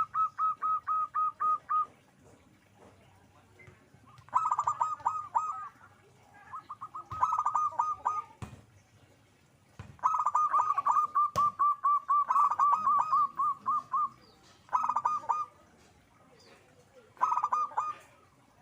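Zebra dove (perkutut) calling: about six bouts of rapid, staccato cooing notes, the longest about four seconds, with short pauses between bouts.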